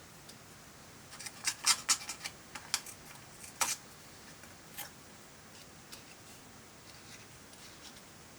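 A run of sharp clicks and light taps of small hard objects, several in quick succession about a second in, then single ones spaced further apart and fading to faint ticks.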